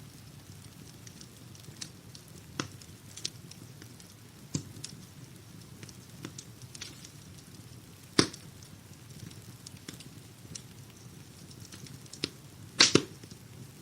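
Wood fire in a fireplace crackling over a low steady hiss, with scattered sharp pops; the loudest snaps come about eight seconds in and as a quick double pop near the end.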